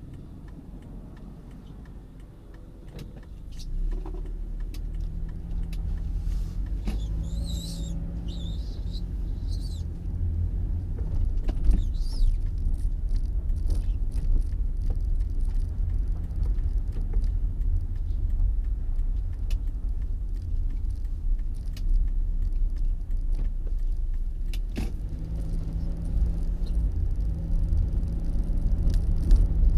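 A motor vehicle's low, steady rumble sets in about four seconds in and grows louder around ten seconds, with scattered small clicks.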